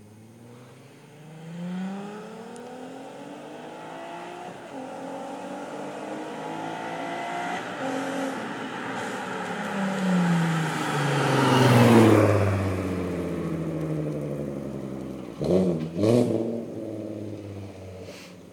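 VW Golf R32 3.2-litre VR6 through an EIP Competition Series exhaust and USP test pipe, pulling hard with its engine note climbing in pitch several times. It is loudest about twelve seconds in as the pitch drops, then revs twice sharply near the end.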